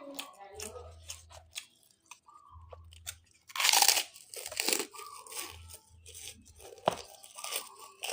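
A person chewing and crunching food close to the microphone, with a run of short crisp crunches; the loudest bite comes a little after three and a half seconds in.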